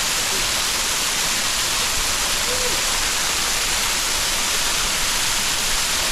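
Mountain river water rushing steadily over rocks, an even hiss of constant loudness.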